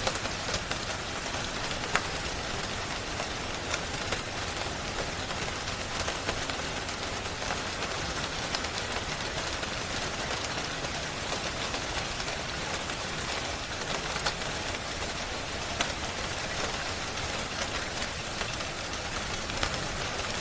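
Steady rain falling, with occasional sharp crackles and pops from a wood fire.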